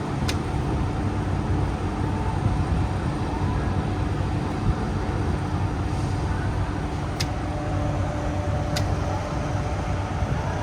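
Steady low rumble of idling diesel semi-truck engines at a truck-stop fuel island, with a faint steady hum and three short sharp clicks, about a third of a second in and twice near the end.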